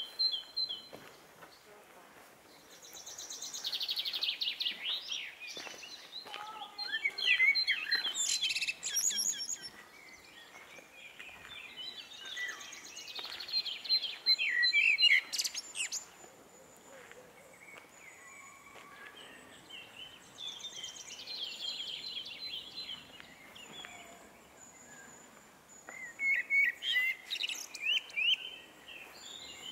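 Songbirds singing in repeated phrases of a few seconds each: quick high chirps and trills, over faint outdoor background noise.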